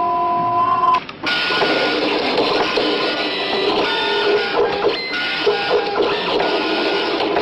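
A steady electronic tone stops about a second in, and a computer dot-matrix printer starts printing with a dense, rattling chatter of the print head that runs on.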